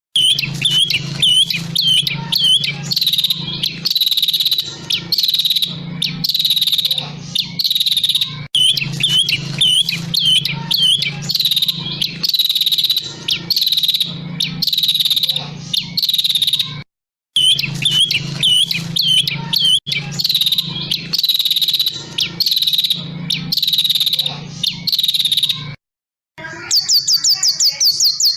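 Songbird song: a short phrase of quick chirps and whistles repeated over and over about once a second, broken twice by brief cuts in the recording. Near the end a different bird takes over with a fast, high, rapid trill.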